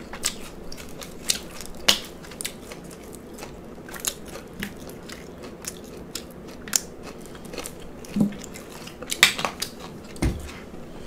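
Close-miked mouth sounds of chewing and biting a lettuce-wrapped cheeseburger slider: irregular wet smacks and crunches, with a low thump about ten seconds in.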